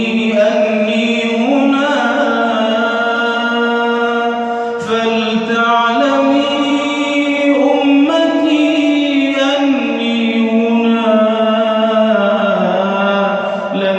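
Wordless interlude of an Islamic nasheed: layered voices hold long notes in chords that shift every second or two, with a brief click about five seconds in.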